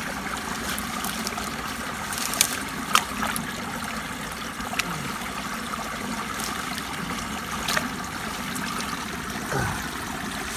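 Floodwater trickling steadily through the pond's spillway overflow, with a few short sharp sounds: one pair a couple of seconds in and another later.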